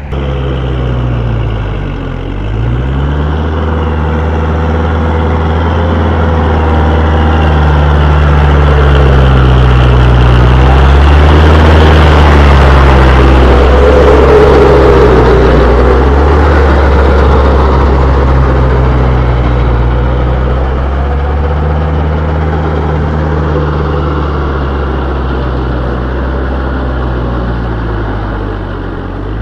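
Kubota tractor's diesel engine running steadily under load, pulling a rotavator through hard soil. The low engine drone grows louder toward the middle and eases off again near the end.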